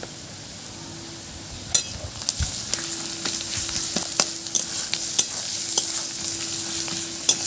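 Grated garlic, ginger and chopped onion frying in hot mustard oil in a kadai, sizzling, while a spatula stirs and scrapes the pan with scattered clicks and knocks. The sizzle grows louder about two seconds in, once the stirring gets going.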